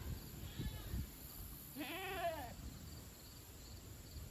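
A goat bleating: one clear call that rises and falls, about two seconds in, with a fainter call shortly before it.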